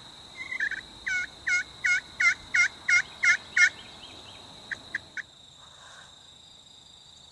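Wild turkey yelping: a run of about nine evenly spaced yelps, roughly three a second, then three shorter notes about five seconds in before it stops.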